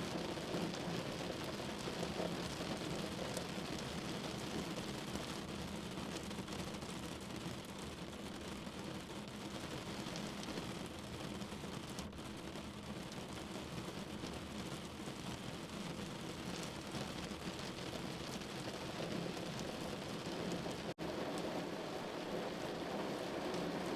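Steady rain falling on a window: an even hiss with fine scattered drop ticks over a low rumble that swells at the start and near the end. The sound drops out for an instant about three-quarters of the way through.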